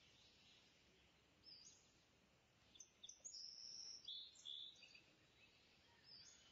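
Faint high-pitched bird chirps: a short call about a second and a half in, then a cluster of chirps from about three to five seconds in, and another near the end, over a quiet steady hiss.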